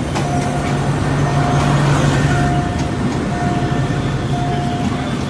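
Train moving through a station: a steady rumble with a low hum that grows louder about two seconds in. A high beep repeats about once a second throughout.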